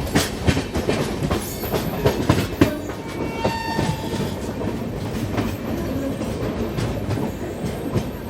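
Shatabdi Express train wheels running over the rail joints: an irregular run of sharp clicks and knocks, with a brief high tone about three and a half seconds in.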